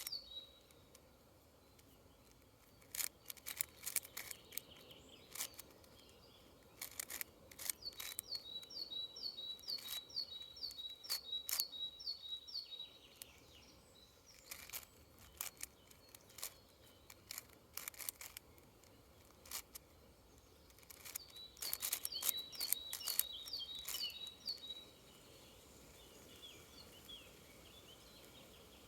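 Plastic clicks of a 6x6 Rubik's cube's layers being turned, coming in bursts of quick turns with pauses between. A songbird sings a fast run of repeated high notes several times over the turning.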